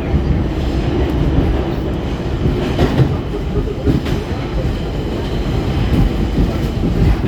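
R46 subway car running along the track: a steady low rumble of wheels on rail, with a few clicks and knocks as the wheels cross rail joints.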